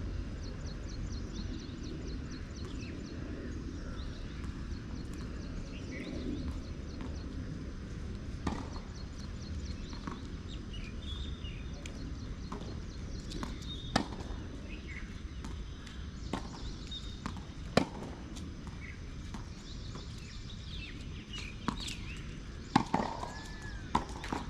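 Tennis balls struck by rackets: a handful of sharp pops several seconds apart, over steady background noise.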